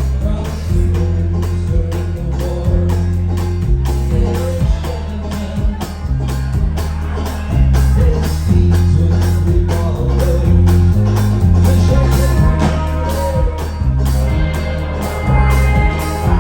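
Live band playing amplified music: a loud stepping bass line, guitar and drums keeping a steady beat.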